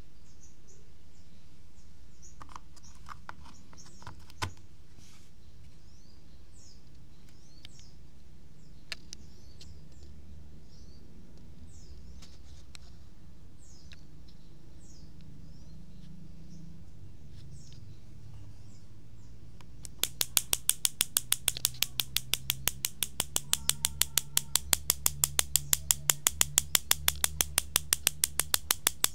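Small birds chirping in the background over a low rumble. About two-thirds of the way through, a fast, even train of sharp clicks starts, several a second, louder than everything before it.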